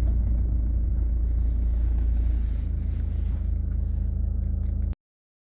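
Steady low rumble of a car on the move, road and engine noise, which cuts off suddenly about five seconds in.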